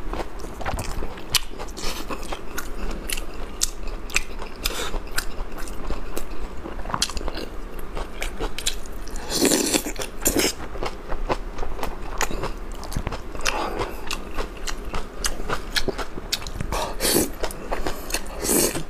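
A person chewing and biting food close to the microphone: many short, crisp clicks of chewing, with a few louder bites about halfway through and again near the end.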